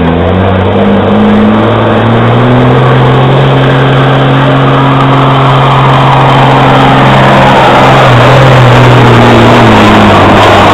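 Street semi's diesel engine pulling hard under load at high revs. The pitch climbs at the start, holds steady, and drops off near the end.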